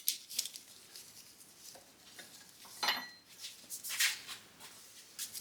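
Scattered metal clicks and clinks as a ratchet strap is undone, its ratchet and hooks knocking against the steel front-beam parts, one clink ringing briefly about three seconds in.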